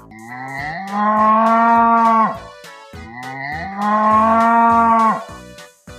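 A cow mooing twice. Each moo is a long, drawn-out call of about a second and a half that drops in pitch as it ends. Light background music runs under it.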